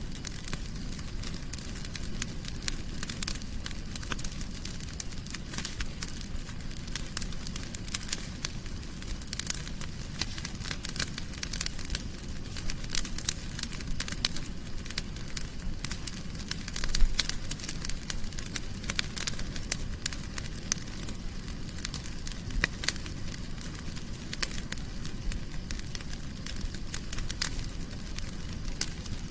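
Wood fire in a fireplace crackling: a dense, irregular run of sharp pops and snaps over a steady low rumble, with one louder pop a little past halfway.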